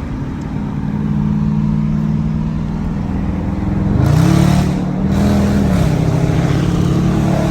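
A car engine running steadily, then revving up about four seconds in with a rush of noise. It holds the higher pitch for a couple of seconds, then settles back down.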